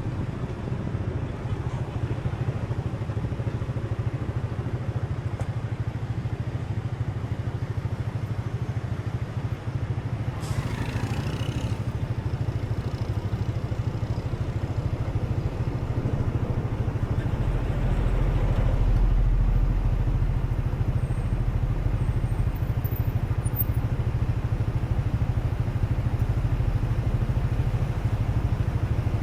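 Steady low rumble, with a brief falling hiss about ten seconds in and a deeper swell a few seconds before the midpoint of the second half.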